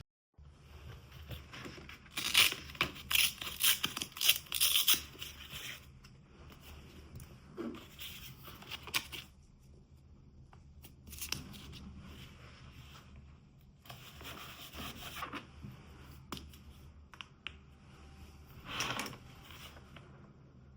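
Paper being torn and handled in a series of short rustling bursts, the busiest run about two to six seconds in and a few more spread through the rest.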